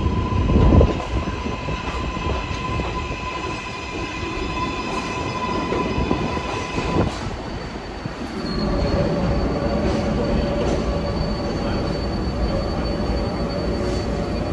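New York City subway train (R142/R142A type) running on the track, its wheels giving a steady high squeal over a rumble. There is a loud thump about a second in, and the squeal changes pitch about eight seconds in.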